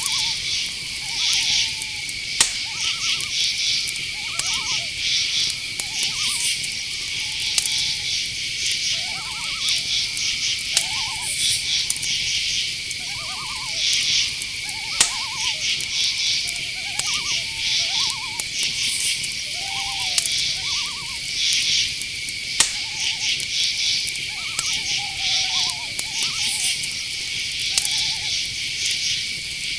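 Night-forest ambience: crickets trilling steadily with other insects chirping in quick pulses, over short hooting owl calls repeated every second or two, and a few sharp clicks.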